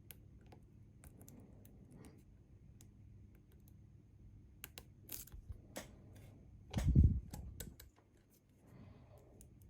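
Small metal lock picking tools clicking and ticking inside a Bi-Lock cam lock as its pins are worked, in irregular light clicks. A dull thump about seven seconds in is the loudest sound.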